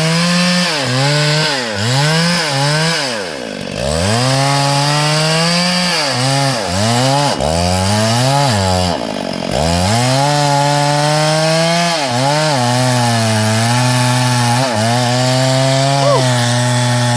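STIHL MS382 two-stroke chainsaw running at high revs through hardwood, its engine note sagging and recovering over and over as the chain bites under load. Twice the revs fall away almost to idle and climb back up.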